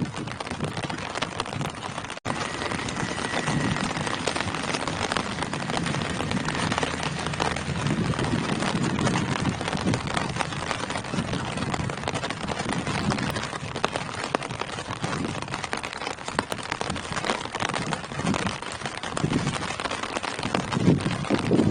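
Steady rain falling on tree leaves: a dense, continuous mass of drops. The sound cuts out for an instant about two seconds in, and a low rumble swells near the end.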